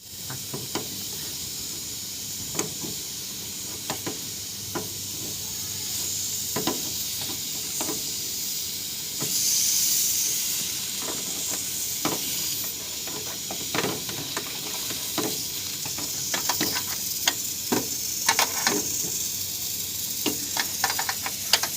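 Refrigerant gas hissing steadily out of a leak in an air conditioner's line, louder for a few seconds around the middle, with scattered clicks and taps throughout.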